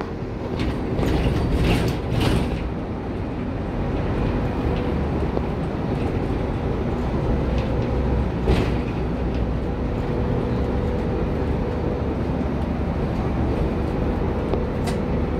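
Boat engine running steadily on board a yacht, a constant low rumble with a faint steady hum, broken by a few brief clicks or knocks.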